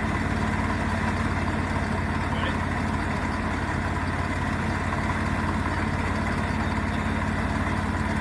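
Portable sawmill engine running at a steady, even speed.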